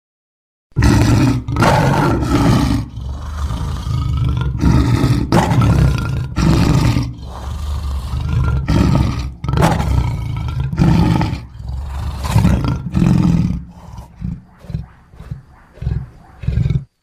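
Lion roaring: a long run of deep, loud roars, then shorter, quicker ones near the end that cut off suddenly.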